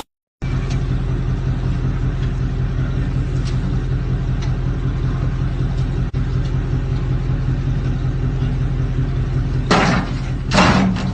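A motor vehicle's engine running steadily at idle, a low even hum, with two louder, harsher noises near the end.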